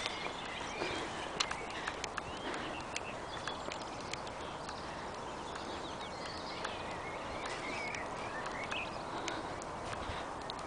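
Birdsong: short warbling phrases from several small birds, over a steady hiss and scattered sharp clicks and taps.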